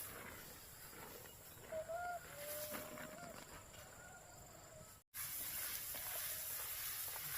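Chicken calling: a short note, then a longer held one. About five seconds in the sound cuts out abruptly, and a steady sizzling hiss takes over.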